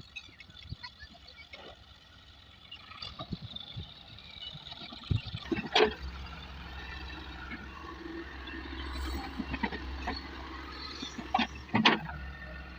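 Tractor with a few knocks and clunks, then from about six seconds in a steady low engine rumble, with two more sharp knocks near the end.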